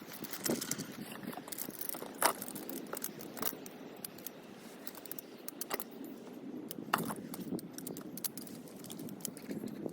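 Gear being handled by hand: scattered light clinks and knocks over a soft rustle, with the sharpest knocks about two seconds in and again near seven seconds.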